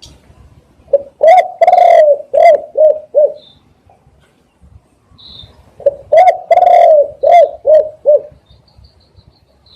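Spotted dove cooing loudly in two phrases. Each phrase is a short coo, a long drawn coo, then three or four quicker coos. A few faint high chirps from another small bird fall between the phrases.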